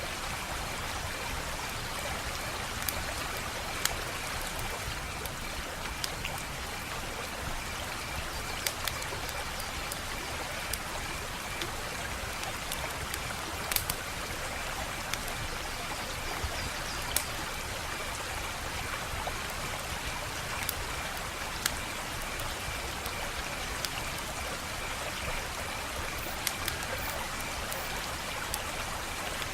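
Wood fire crackling: a steady hiss and low rumble of burning with sharp pops scattered irregularly throughout, and a faint steady high tone in the background.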